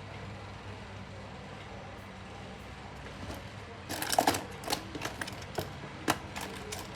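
Light metallic clicks and clinks of small clock-movement parts and tools being handled, a quick cluster starting about four seconds in, over a steady low electrical hum.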